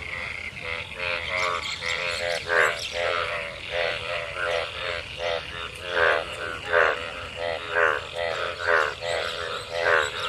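A breeding chorus of many frogs calling after monsoon rain: overlapping pulsed croaks, each a quick rattle of pulses, coming about twice a second, with some nearer calls louder than the rest.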